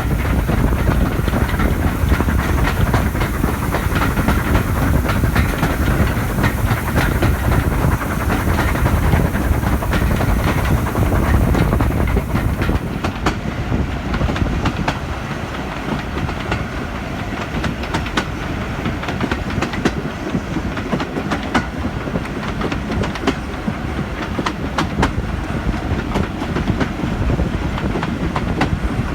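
Steam-hauled train running along the track, a steady rumble with wheels clicking over rail joints. A high hiss in the first half drops away about halfway through.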